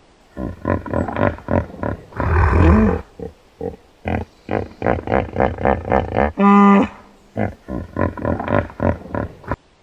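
Animal calls: a rapid run of short calls, with a longer, louder call about two and a half seconds in and a clear, steady-pitched call about six and a half seconds in.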